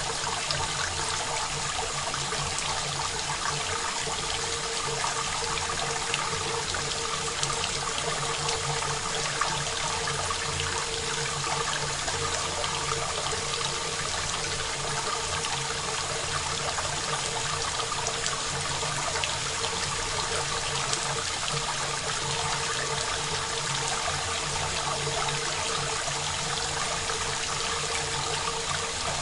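Steady rain, a dense even patter of drops with fine scattered ticks, dry and close with no reverb.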